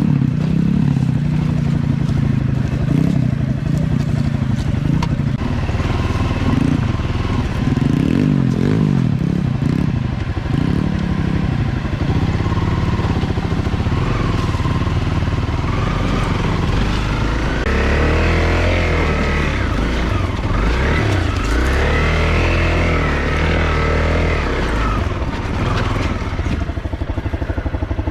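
Pit bike engine running under way on a trail ride, its pitch rising and falling as the throttle is opened and eased.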